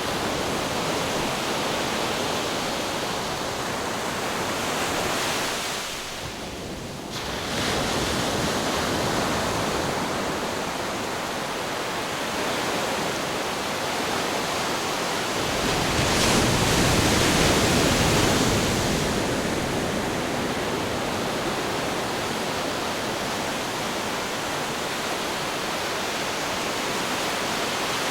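Ocean surf and wind: a steady rush of breaking waves that ebbs briefly about six seconds in and swells loudest for a few seconds past the middle.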